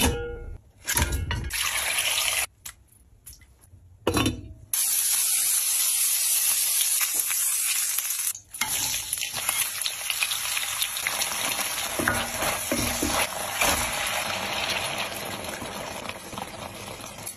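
Food sizzling and crackling in hot oil in a pot as it is fried and stirred, with clicks of utensils against the pan. The sizzling breaks off briefly a few times.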